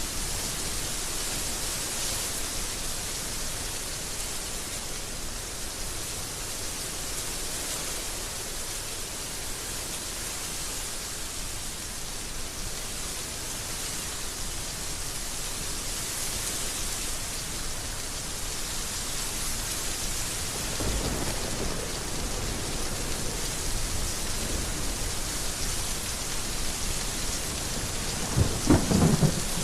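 Heavy rain falling steadily. Thunder rumbles in about two-thirds of the way through, with a louder crack near the end.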